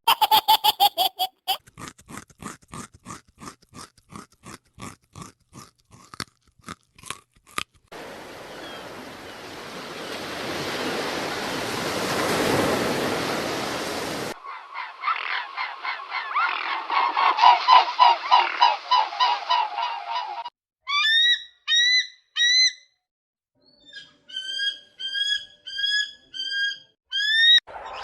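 A run of separate animal sounds: quick repeated clicking calls for several seconds, a steady hiss for about six seconds, a fast pulsing chorus, then short rising chirps repeated in groups near the end.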